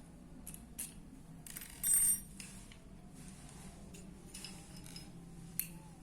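Light metallic clicks and clinks, with one louder, ringing metallic rattle lasting about half a second about two seconds in, over a faint steady hum.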